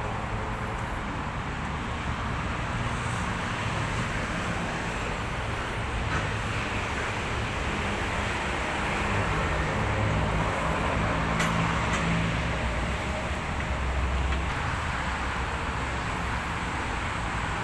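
Isuzu Elf truck's diesel engine running steadily with a low rumble, swelling slightly a few times.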